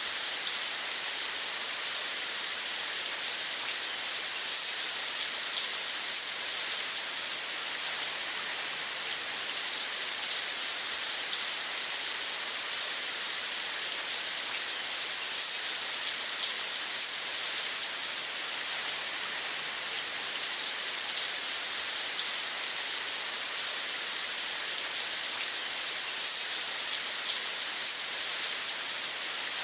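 Steady rain: an even hiss of many falling drops that holds at one level without let-up.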